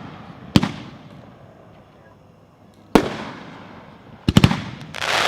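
A 9-shot consumer fireworks cake firing: sharp bangs with echoing tails, one about half a second in and another about three seconds in, then three bangs in quick succession and a swelling rush near the end.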